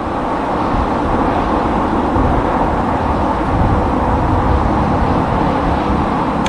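Steady roadside traffic noise: vehicles rolling past with a continuous low engine and tyre rumble.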